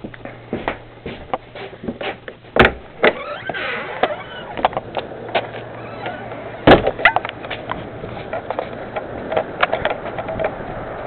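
Irregular knocks and clatter with two louder thumps, about two and a half and six and a half seconds in, and a few short squeaks, over a faint steady hum.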